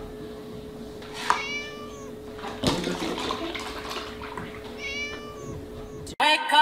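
Kitten meowing twice, about a second in and again about five seconds in, while milk pours from a tipped carton into a plastic tub, over a steady hum. Music cuts in loudly near the end.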